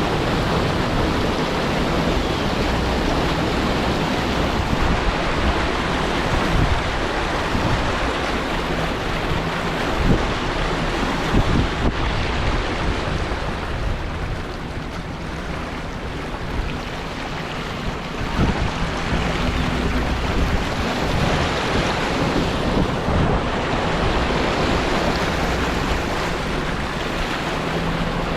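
Gusty storm wind blowing across the microphone over a steady rushing noise, rising and falling in irregular gusts with a lull about halfway through.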